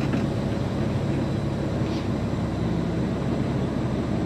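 Straight-piped Peterbilt 389 semi truck's diesel engine running steadily, an even low drone with no revving.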